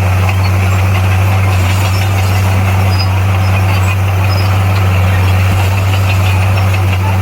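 Bulldozer's diesel engine running at a steady, unchanging pitch, a loud low drone.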